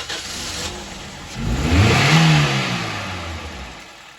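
Toyota Corolla GLi engine running just after starting, revved once about a second and a half in, climbing and then dropping back toward idle.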